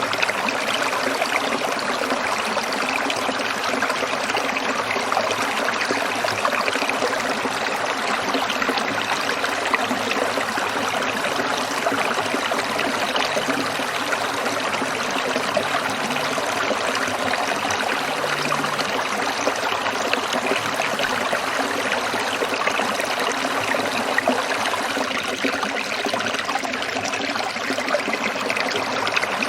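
Stream water trickling and splashing over rocks, a steady, even rush with no breaks.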